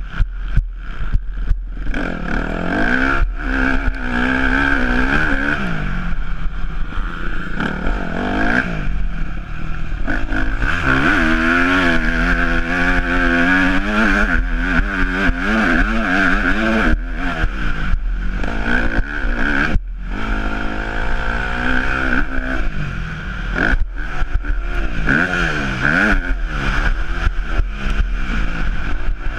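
Yamaha YZ250F four-stroke single-cylinder motocross engine, revving up and down repeatedly as the throttle is worked, with brief moments where it cuts back.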